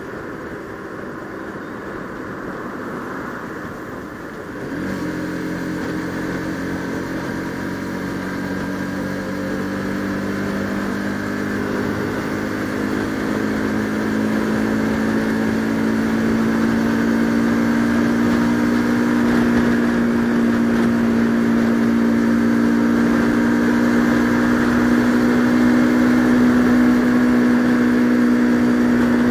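Bajaj Pulsar RS200 single-cylinder motorcycle engine running under way. The throttle opens about five seconds in, and the engine note then climbs slowly in pitch and loudness as the bike gathers speed.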